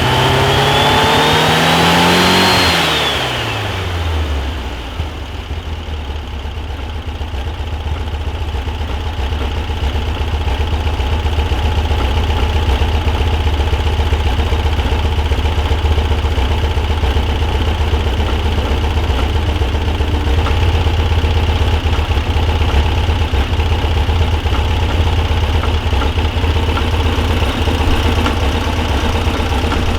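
Air-cooled 1641cc Volkswagen flat-four with an equal-length merged header and single muffler, revving up briefly and then dropping back at about three seconds to a steady idle.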